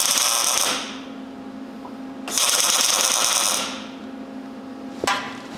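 MIG welder laying two tack welds, each a short burst of crackling arc sizzle about a second long, with a pause between them. A single sharp click follows near the end.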